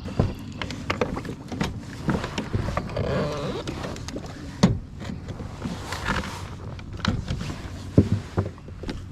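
Irregular knocks and clatter on a fishing kayak as things are moved about aboard, over a steady low water and wind noise; the sharpest knocks come about halfway through and near the end.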